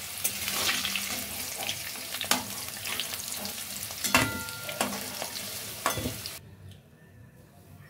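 Potato wedges sizzling in hot oil in a wok, with a metal spatula scraping and knocking against the pan a few times as they are turned and lifted out. The sizzling cuts off abruptly about six seconds in.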